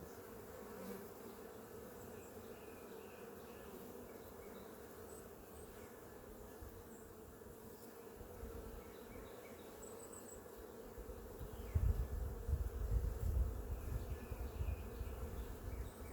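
A honeybee colony humming steadily from an opened hive. About eleven seconds in, a louder low rumble joins it.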